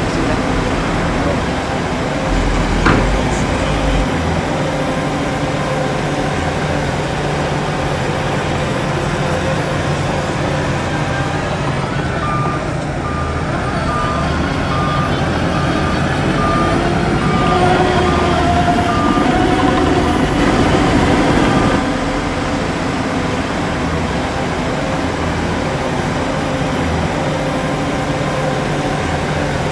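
Diesel engines of heavy earthmoving machinery, a bulldozer and dump trucks, running steadily. In the middle a reversing alarm beeps at an even pace for about seven seconds, and there is a single metal clank about three seconds in.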